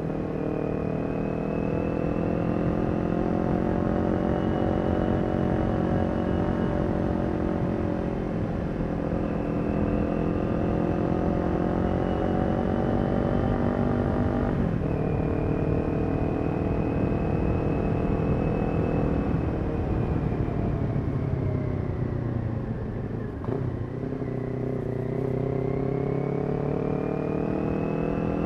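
Kawasaki Ninja 400's parallel-twin engine through a Yoshimura aftermarket exhaust, ridden at steady cruising revs that rise and fall gently. There is a quick gear change about halfway through, and a brief drop in revs near the end before it pulls again.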